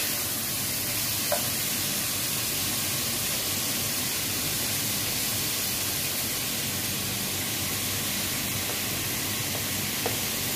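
Chicken pieces frying in a pan: a steady, even sizzle, with a single light tap about a second in.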